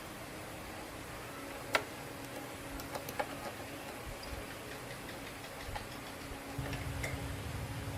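A few sharp clicks and taps, the loudest about two seconds in, over a low steady hum that grows louder near the end.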